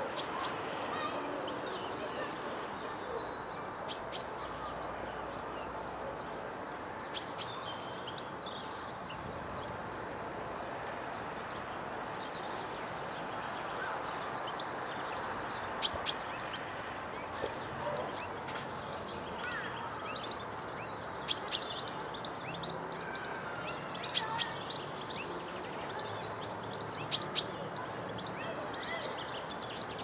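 Sharp, short bird call notes given in quick pairs, seven pairs spaced a few seconds apart, over steady background noise.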